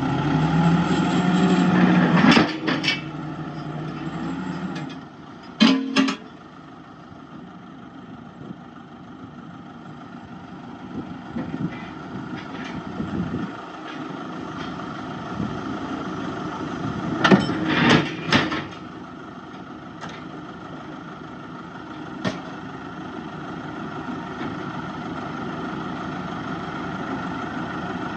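Komatsu D31-P bulldozer's diesel engine running steadily, with loud metallic clanks from the tracks and blade a few times: a pair near the start, another pair about six seconds in, a cluster about two-thirds through, and a single one later. The engine dips about five seconds in and then slowly builds again.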